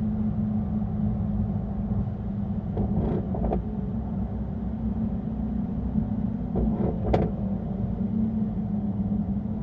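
Mercedes-AMG E63 S's 4.0-litre twin-turbo V8 and road rumble at a steady cruise: an even drone that holds one pitch. A few short knocks cut through it, two about three seconds in and two more a little past the middle.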